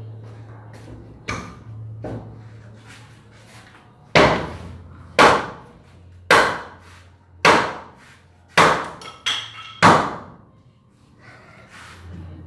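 A series of hard, ringing blows about a second apart, like hammer strikes, with a few lighter knocks before them and a low steady hum underneath.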